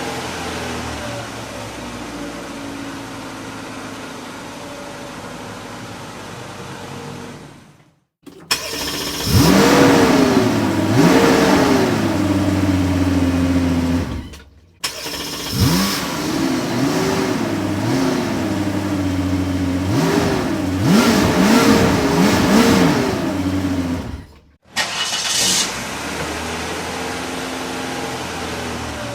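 Car engine idling steadily, then revved in short blips: the pitch climbs and falls twice, and after a brief break about five more times, before it settles back to a steady idle. There are short silent gaps between the passages.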